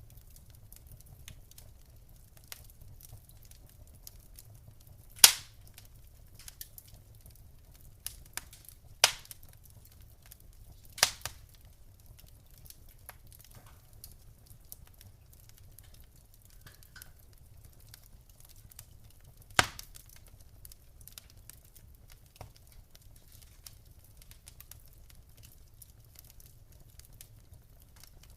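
Wood fire in a fireplace crackling: a scatter of small snaps, and four loud sharp pops spaced a few seconds apart, over a faint low rumble of the burning fire.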